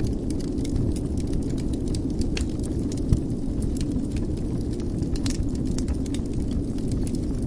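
Wood fire burning in a fireplace: a steady low rumble of flames with irregular crackles and snaps, and one louder pop about three seconds in.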